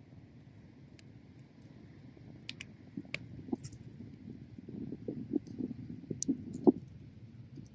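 Wood bonfire crackling: a steady low rumble of burning with sharp pops and snaps that come thicker in the second half, the loudest pop near the end.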